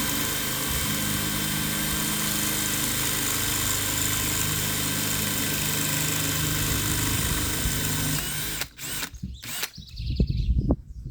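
Electric drill running steadily with a motor whine, released about eight seconds in and spinning down, followed by a few knocks and thumps of handling.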